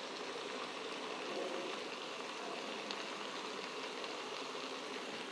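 Mixed vegetables frying in oil in a pot, a steady soft sizzle.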